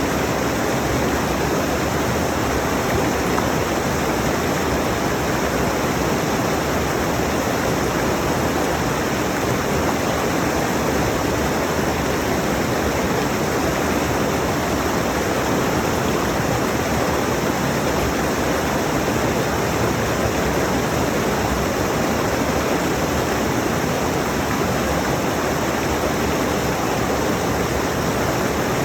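Rushing mountain stream: a steady, even wash of water noise with no change.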